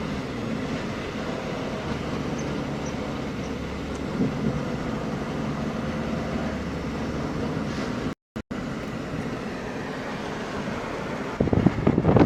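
Car in motion heard from inside the cabin: steady engine and road noise. The sound cuts out for a split second about eight seconds in, and near the end a louder, rougher rumbling buffet sets in.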